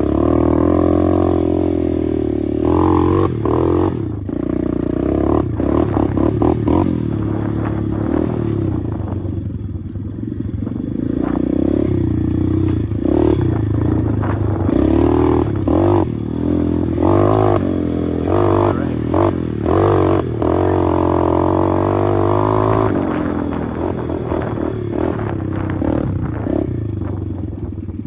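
A 125cc pit bike engine being ridden, revving up and easing off again and again, with rattling and knocks from the bike over rough ground.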